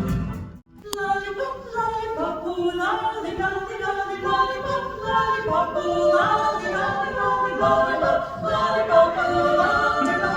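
Women's chorus singing a cappella in several-part harmony. The singing begins just after a short break and a click about a second in.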